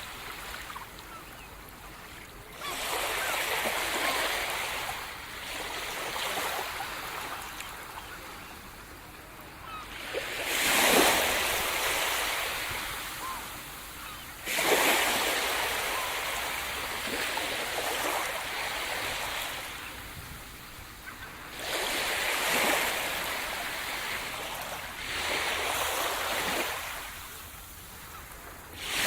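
Sea surf: waves breaking on the shore and washing back. Each break swells to a loud rush and then fades, coming every few seconds at uneven spacing.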